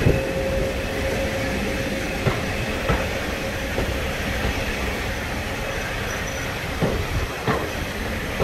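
Railway carriage running on the track, heard from an open window: a steady rumble with a few sharp wheel clicks over rail joints, passing close alongside parked goods wagons.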